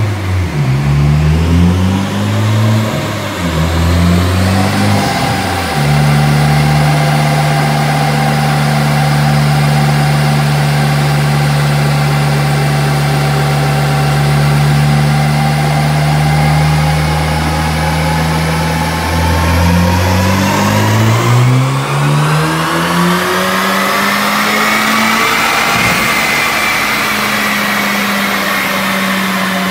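Turbocharged 2.0-litre four-cylinder of a tuned Honda Civic Type R (FK8) running on a chassis dyno, through a catted downpipe and aftermarket exhaust. It revs up and down a few times, holds a steady speed, then makes a long pull from about 19 s with its pitch and a whine climbing together, and settles into a steady drone near the end.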